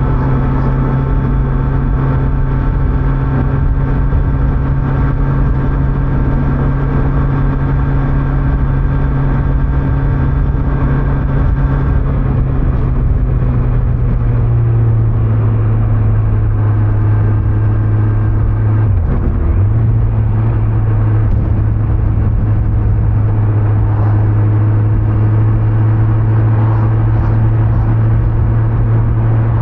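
Kawasaki Z900's inline-four engine running at steady cruising revs under wind and road noise. The engine note drops a little about halfway through, then briefly dips and picks up again a few seconds later.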